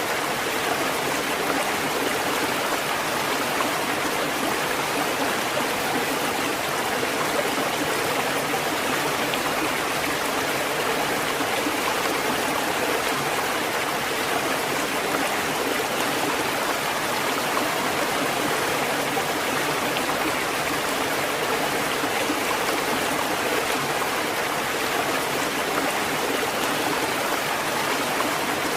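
Steady, even rush of flowing water with no rise and fall of breaking waves.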